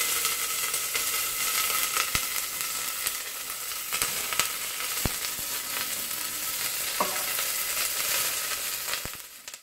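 Shredded red cabbage and scallion whites sizzling in a stainless steel saucepan on an electric stove, with a steady hiss, while a spoon stirs them and knocks against the pan a few times.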